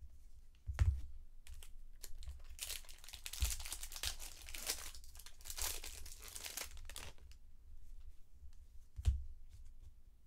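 Baseball card pack wrapper being torn open and crinkled for several seconds in the middle, with a light thump about a second in and another near the end.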